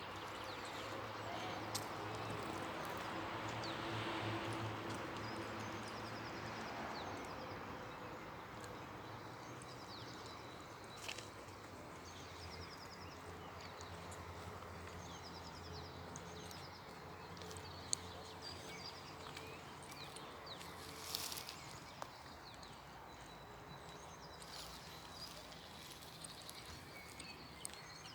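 Small birds chirping with short repeated high trills, over a low steady hum and occasional sharp clicks or knocks.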